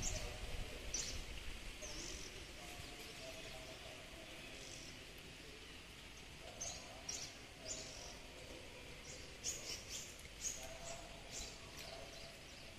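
Small birds chirping now and then over quiet outdoor ambience, with the chirps coming more often in the second half.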